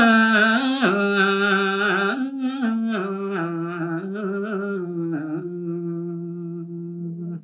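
A solo male voice sings a Balinese tembang line in the Sinom metre, unaccompanied. The melody falls in slow, ornamented steps and ends on a long held low note that fades away.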